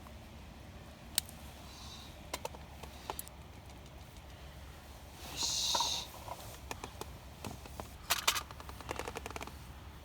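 Scattered clicks and taps of cooking utensils on an iron griddle, with a short hiss lasting under a second about five seconds in and a quick run of clicks near the end.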